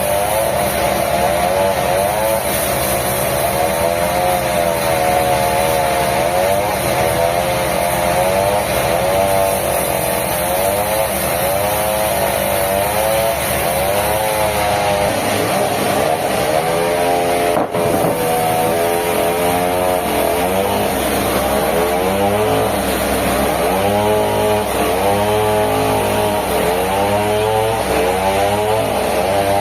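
Sawmill machinery running loudly: a motor-driven saw whose pitch repeatedly sags and rises as it works through the wood. There is a momentary break about two-thirds of the way through.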